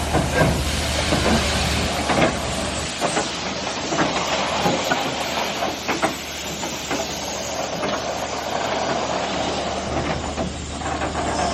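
Steam locomotive hissing steam steadily, with scattered clicks and knocks from the train.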